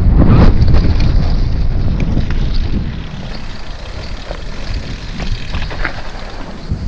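Mountain bike riding a dirt trail: wind buffets the microphone with a low rumble, and the frame and tyres give scattered knocks and rattles. The rumble is loudest for the first few seconds, then eases off.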